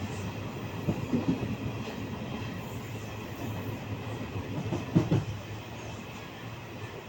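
A steady low mechanical rumble, with louder knocks about a second in and again near five seconds.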